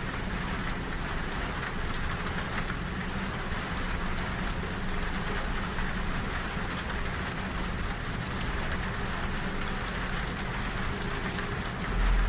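Steady rain pattering on a train window over the low, even rumble of the moving train. A deeper rumble swells at the very end.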